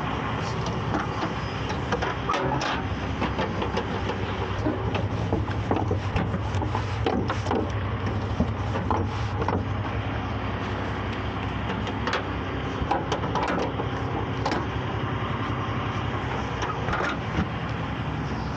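A heavy tow truck's engine running steadily, with scattered short clanks and knocks of gear being handled and stowed.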